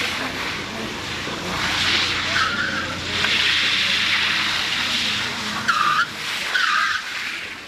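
Car tyres squealing as a car drifts, the screech swelling and easing several times, with a few short, sharper chirps in the last few seconds.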